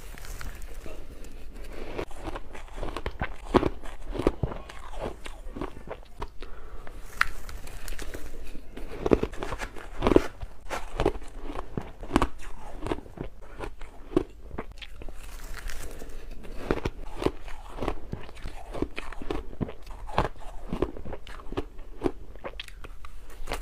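Shaved ice being bitten and chewed: a steady run of wet crunches, a few every second.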